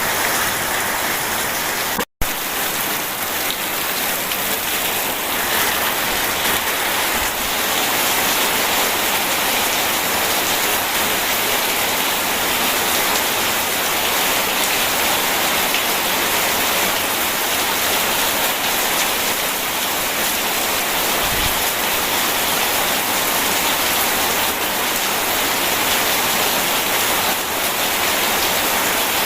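Steady rain, an even continuous hiss, that cuts out to silence for an instant about two seconds in.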